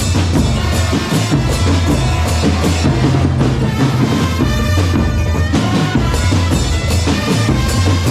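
A drum corps playing a fast, steady rhythm on snare and bass drums, with a loud low drum pulse. A held, high melodic tone joins the drums about three seconds in and stops about two seconds later.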